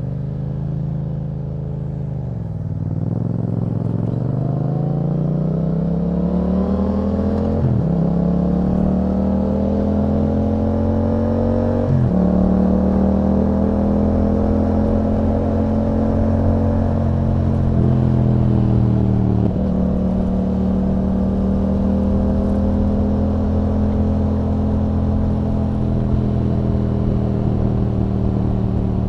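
2021 Yamaha MT-07 parallel-twin running through an Akrapovič exhaust, accelerating with the engine note climbing, then two quick upshifts about 8 and 12 seconds in. After that it holds a steady cruise, easing off slightly about two-thirds of the way through.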